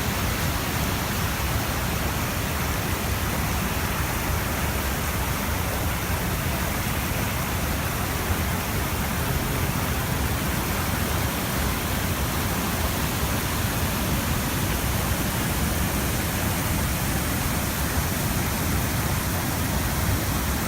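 Mountain stream swollen by heavy rain, its water rushing in a loud, steady roar.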